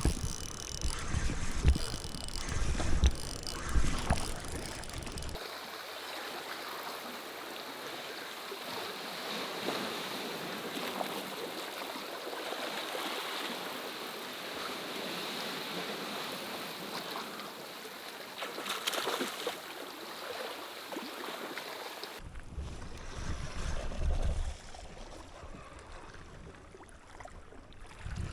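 Wind buffeting the microphone, with a few knocks, over rain and sea wash on a rocky shore. About five seconds in it cuts to a steady hiss of rain and water, and about twenty-two seconds in the wind rumble returns, dropping lower near the end.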